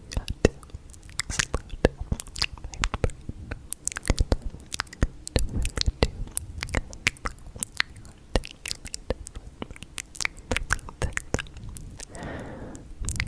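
Close-miked ASMR noises: a dense, irregular run of sharp clicks and crackles, with a short breathy sound near the end.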